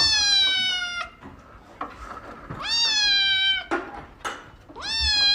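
Domestic cat meowing: three long meows, each about a second, every one sliding slightly down in pitch.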